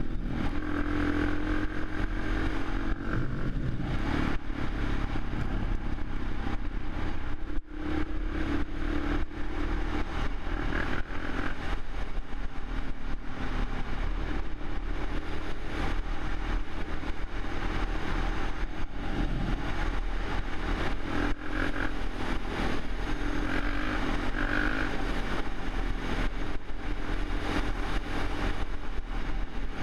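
Suzuki LTZ 400 quad's single-cylinder four-stroke engine running, its pitch rising and falling as the throttle is worked, with a brief dip about eight seconds in.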